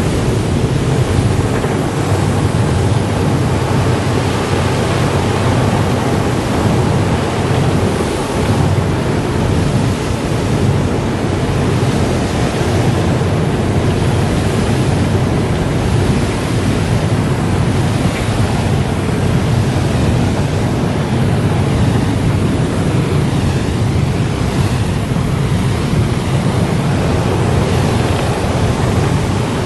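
Car wash running: a steady rush of spraying water and machinery.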